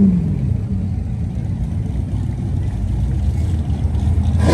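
Car engine revving: the pitch falls away after a blip of the throttle, settles into a low idle rumble, then rises sharply in a fresh rev at the very end.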